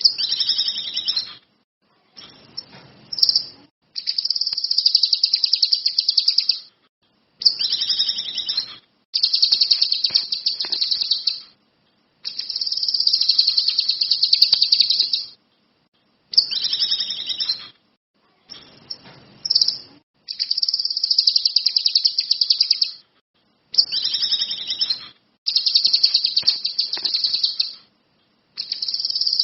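Kinoi songbird singing: a string of high, rapid trilled phrases, each one to four seconds long, broken by short pauses, in full song.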